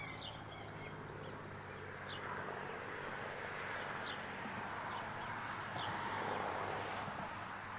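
Honeybees buzzing around their hive, a steady hum that swells in the middle. A bird gives short falling chirps every second or two.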